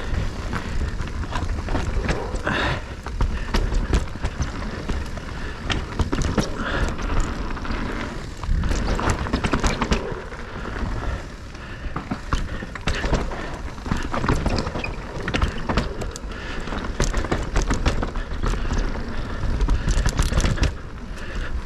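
Electric mountain bike ridden down a rough dirt trail: tyre and riding noise over a constant low rumble, with frequent sharp knocks and rattles from the bike over bumps.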